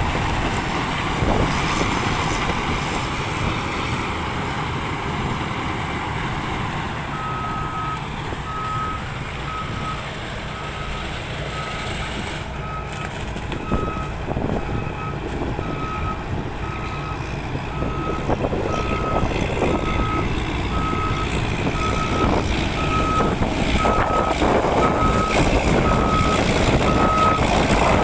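Heavy land-clearing machine's diesel engine running under load, with a reversing alarm starting about seven seconds in and sounding a steady run of short, evenly spaced beeps.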